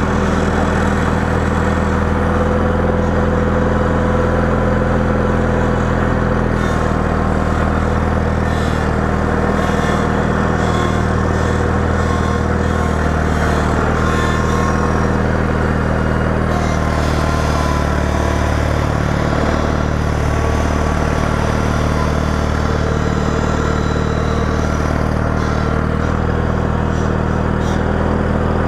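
Engine of a 318 tractor running steadily while plowing snow. Its pitch wavers and shifts partway through as the load or speed changes.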